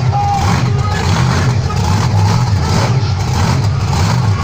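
Monster truck engine running with a deep, steady note that wavers slightly.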